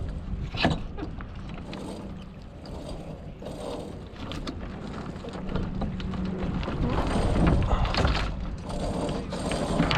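Wind buffeting the microphone as a low rumble that swells about six seconds in, with scattered knocks and rattles from a small sailboat and its gear being handled.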